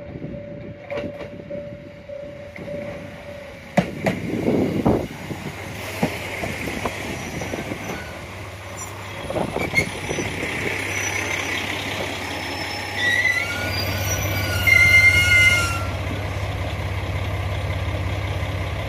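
A diesel train moving on the track, its wheels running on the rails over a steady low drone, with wavering high squeals from the wheels about two-thirds of the way in. A pulsing tone in the first few seconds stops with a sharp knock about four seconds in.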